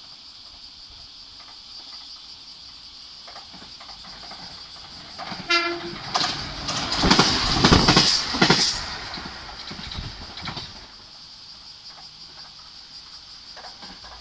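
JR Kyushu 817 series electric train giving a short horn blast, then passing close by with wheel rumble and clickety-clack over the rail joints. It is loudest for a few seconds and then fades away.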